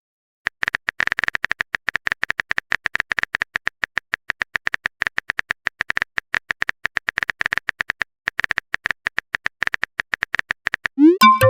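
Rapid, irregular clicks of a phone-keyboard typing sound effect, as a chat message is typed out. Near the end a short chime rings, a message-sent notification.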